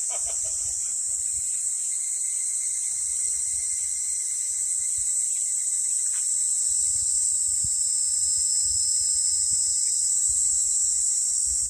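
A chorus of insects singing, a steady high-pitched continuous drone with faint low rumbling underneath.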